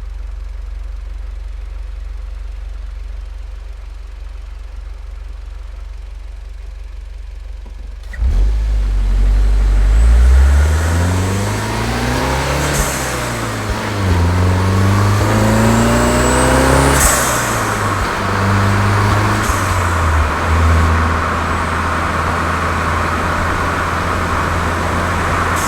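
Tuned Volkswagen Golf 7 GTI's turbocharged 2.0-litre four-cylinder, with an aftermarket Cox exhaust, idling low and steady. About eight seconds in, it gets suddenly louder and the revs climb, with two drops in pitch for upshifts, each marked by a short sharp burst. It then settles to a steady cruise.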